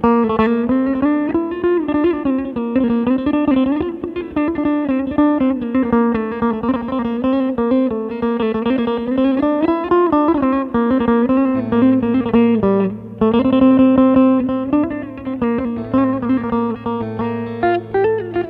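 Electric bağlama playing a quick plucked melody with bending notes, its sound shaped by an iPad used as an effects processor. A steady low note joins in about two-thirds of the way through.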